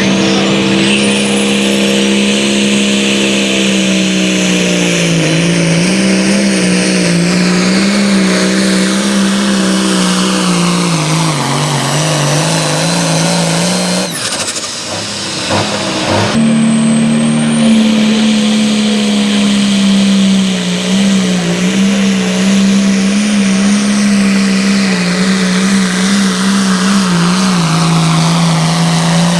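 A pulling vehicle's engine runs flat out while dragging a weight-transfer sled, its pitch slowly sagging as the load builds. The sound breaks off about halfway through, and a second run starts at a higher pitch and holds fairly steady.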